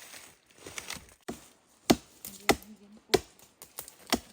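A blade chopping into wood: about six sharp strokes from about a second in, roughly one every 0.6 s, in the course of cutting out a tree's core.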